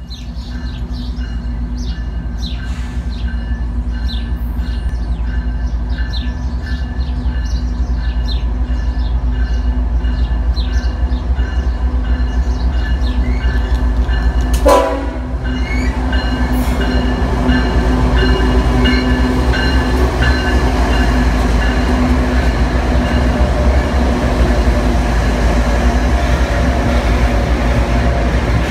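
CSX freight train's diesel locomotives approaching and passing with a steady heavy rumble that swells at the start and grows louder after the midpoint, with the train horn sounding over it.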